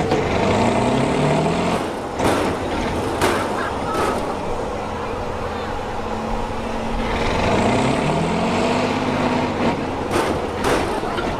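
Kirovets K-700 tractor's diesel engine running and revving up twice, its pitch rising each time, with several short sharp noises in between.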